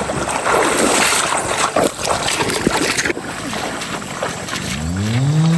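Rushing stream water splashing, cutting abruptly to a quieter rush about three seconds in. Near the end a cow begins to moo, a low call rising in pitch.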